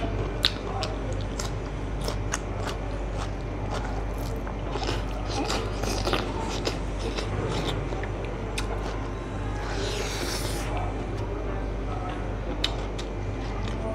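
A person chewing smoked pork and rice, with wet mouth clicks and smacks scattered all through, over a steady low hum. A brief rustle comes about ten seconds in.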